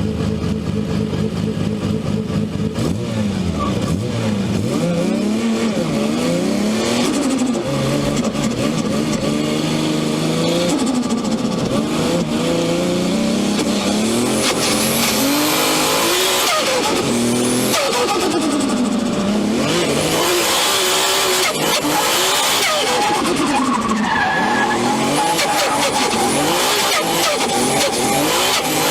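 Nissan Skyline R32's RB26DETT twin-turbo straight-six revving, steady for the first few seconds, then its pitch swinging up and down again and again.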